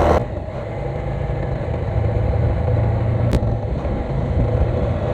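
Motorcycle engine running steadily while riding, its pitch and loudness easing up and down a little, with a single short click about three seconds in.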